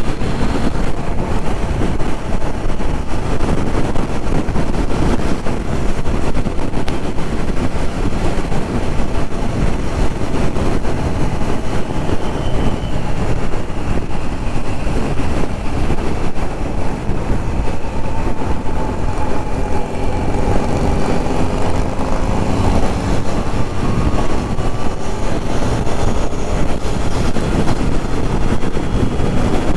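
Motorcycle riding on the highway: steady wind rumble over the engine, with the engine pitch rising and falling in the second half.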